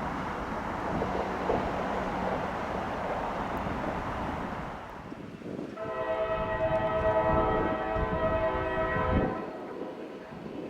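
Steady rumbling noise of a passing train, then about six seconds in a diesel locomotive's multi-chime air horn sounds one long chord for about three seconds, blown for a railway grade crossing.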